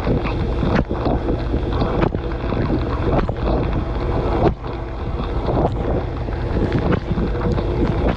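Water spraying inside a running dishwasher, heard from within the tub over the steady drone of the wash pump. The spray dips briefly about every second and a quarter, in time with the rotating spray arm sweeping past.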